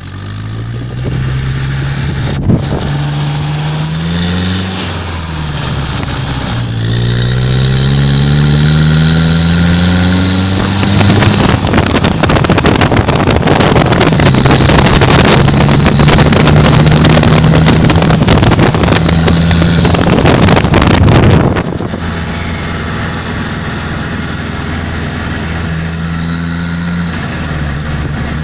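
Vehicle engine running through a homemade exhaust built from a motorcycle muffler, being test-revved. It idles, climbs in two rising revs, is held at high revs for about ten seconds, then drops back to idle. A short blip of throttle comes near the end.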